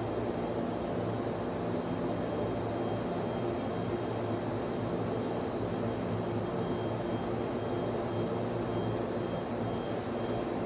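Steady drone of server-room equipment, the cooling fans of servers and network switches running continuously, with a low hum and a faint high whine above it.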